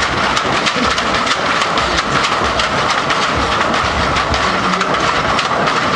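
Lowrider's electric hydraulic pumps whining steadily, with rapid clicking and rattling as the suspension is worked up and down.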